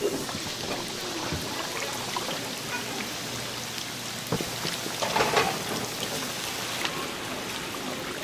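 Chicken deep-frying in hot oil: a steady sizzle with scattered small pops, swelling louder about five seconds in.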